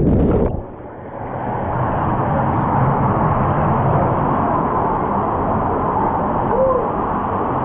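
Steady rushing noise, with one faint short rise-and-fall tone near the end.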